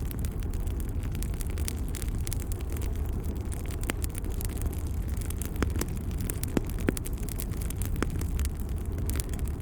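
Wood fire crackling: scattered sharp pops and clicks over a steady low rumble of burning flames, with a few louder pops a little past the middle.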